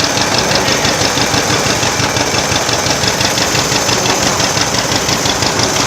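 Antique tractor engine running steadily, with a fast, even beat of firing pulses.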